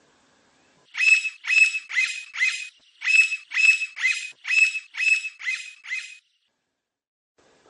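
Blond-crested woodpecker calling: a loud series of about a dozen short, falling notes, roughly two to three a second, with a brief pause after the first five.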